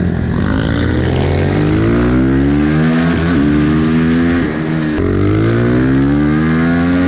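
Supermotard motorcycle engine accelerating hard, its pitch climbing through the revs. It dips briefly at a gear change about three seconds in, drops off again around five seconds, then pulls up once more.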